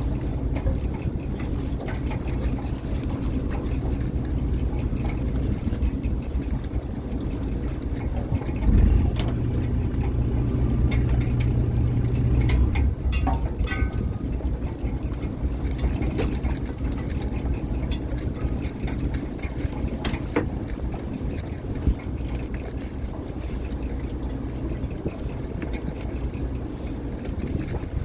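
Fishing boat's engine running steadily. A thump about a third of the way in is followed by a stronger low hum for about three seconds, with a few scattered clanks.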